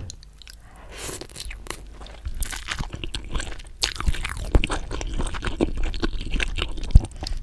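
A person chewing and crunching food, a dense run of crisp crunching bites with a loud snap near the end.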